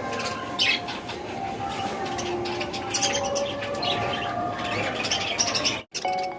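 A flock of small caged pet birds chirping and calling together, a dense chatter of short chirps with a few longer whistled notes. It breaks off abruptly near the end, and chiming music starts.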